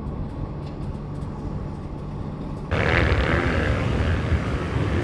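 Motor vehicle engine running: a low steady hum, then about two and a half seconds in an abrupt change to louder rumbling.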